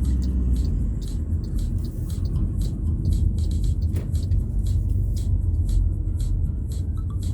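Car driving in traffic, heard from inside the cabin: a steady low road and engine rumble with scattered light clicks.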